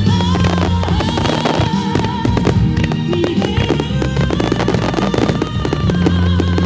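Fireworks bursting and crackling in quick succession, many sharp pops close together, over the show's backing music with long held notes.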